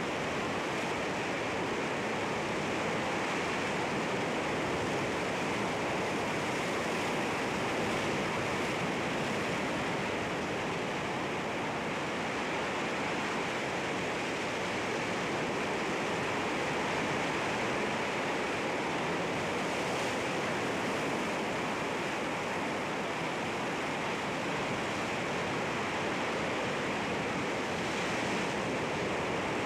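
Sea waves breaking against rocks, a steady, continuous rush of surf with no distinct single crashes.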